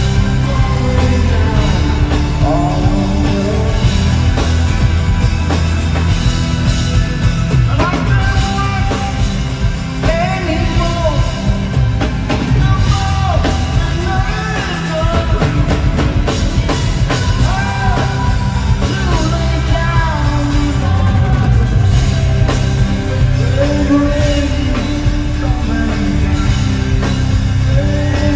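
Live rock band performance, with a male lead vocal singing over drums, bass and keyboards.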